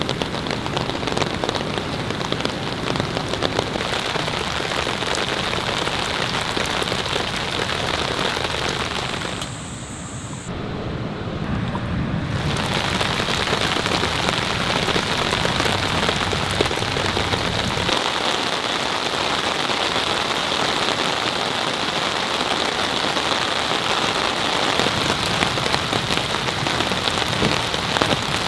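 Heavy downpour of rain, a dense steady hiss of drops hitting surfaces. About ten seconds in it turns quieter and duller for a couple of seconds, then returns at full strength.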